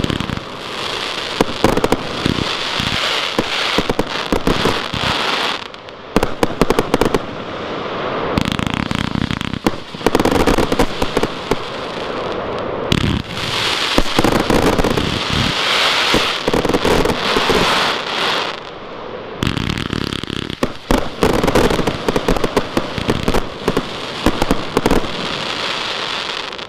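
Transbomber Champion Edition firework going off: a long run of dense crackling and sharp bangs that comes in several waves with brief lulls between them.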